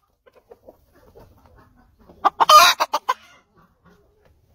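A loud bird call about two seconds in, lasting under a second, after faint scattered sounds.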